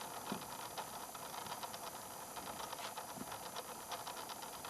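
Kimball player-piano E/F transmission running quietly with a new plastic replacement gear: a faint, steady whir with fine rapid ticking.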